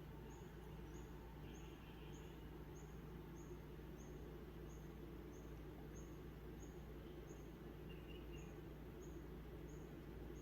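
Faint outdoor bush ambience: a short, high note repeats evenly about twice a second throughout, with a couple of brief soft bird chirps, one about a second and a half in and one near the end, over a low steady hum.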